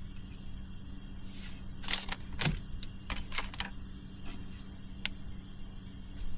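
A handful of short clicks and rustles, like something small being handled, over a steady low hum.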